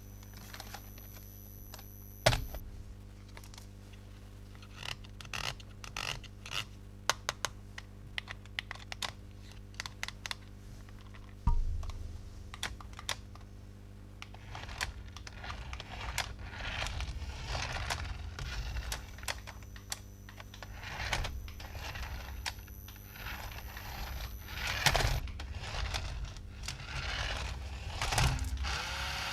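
Toys and packaging being handled: irregular clicks, taps and scrapes over a low steady hum, with sharp louder knocks about two seconds in, near the middle and near the end.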